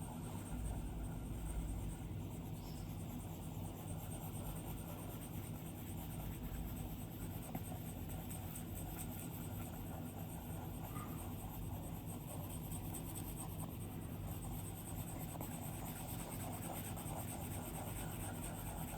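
Stylus drawing on an iPad screen: a continuous run of soft scratching and tapping from short pen strokes.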